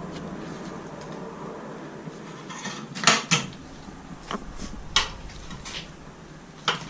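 Metal hand tools clinking and clanking against each other and the bike: a handful of sharp clinks, the loudest about three seconds in and again about two seconds later.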